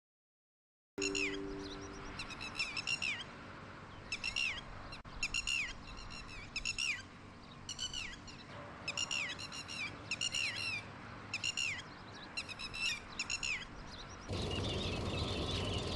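A bird calling over and over in short, downward-sliding notes, singly and in quick pairs, roughly one a second. Near the end the calls stop and a louder steady background noise takes over.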